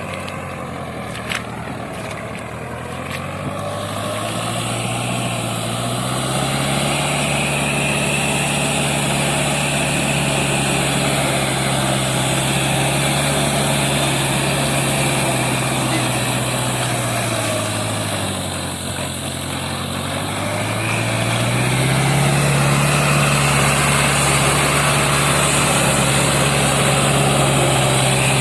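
Sonalika 750 tractor's diesel engine revving up and running hard. It eases off about two-thirds of the way through, then revs up again.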